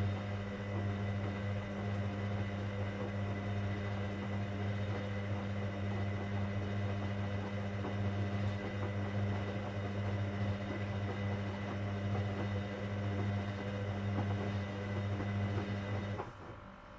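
Hoover Dynamic Next washing machine running on its cotton 60 programme with a steady hum, which cuts off suddenly about sixteen seconds in.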